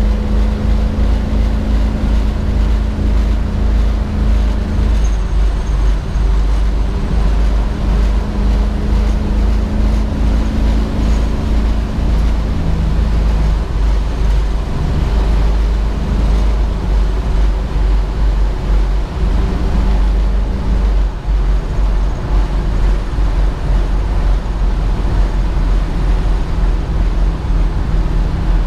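1967 Ford Mustang's 289 V8 running steadily under way, with a heavy low rumble and road noise. The engine note steps slightly in pitch about halfway through and again later.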